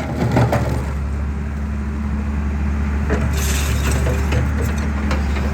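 Excavator diesel engine running steadily while concrete cracks and crumbles as it is crushed, with sharp cracks near the start and a brief hiss about three and a half seconds in.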